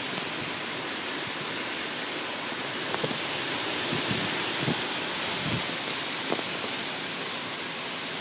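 Strong wind of a dust storm blowing as a steady rushing hiss, with a few faint short knocks now and then.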